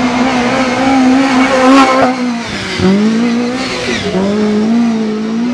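Off-road rally car engine running hard at high revs as it climbs. Its pitch drops sharply and climbs again twice, about two and four seconds in.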